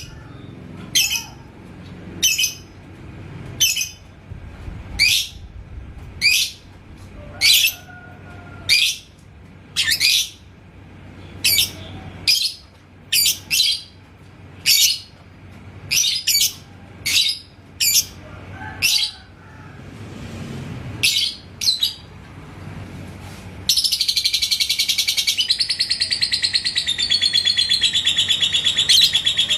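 Lovebird giving sharp, high single chirps about once a second, then, near the end, breaking into ngekek: a long, fast, unbroken chattering trill.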